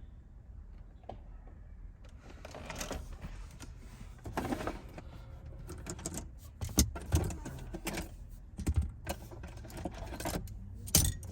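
Irregular clicks, taps and rustling of hands handling car interior trim and parts, with a few sharper knocks in the second half.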